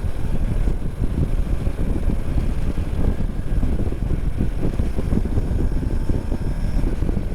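Riding at road speed on a BMW R 1250 GS: a steady rush of wind over the microphone with the bike's boxer-twin engine running underneath.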